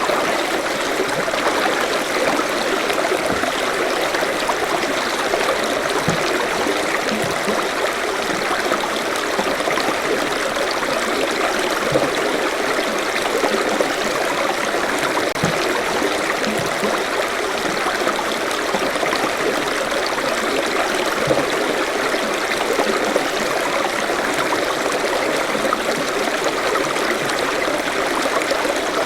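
Forest stream flowing over stones: a steady, even rush of water with light gurgling.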